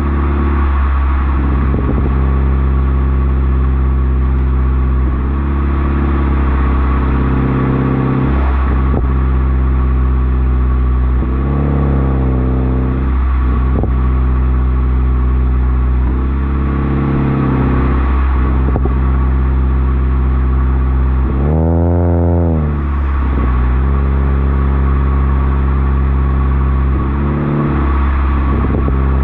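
A 2013 Toyota Corolla's engine idles and is blipped up in short revs every few seconds. The highest rev comes about three quarters of the way through. As the revs drop, the exhaust gives faint crackles and pops.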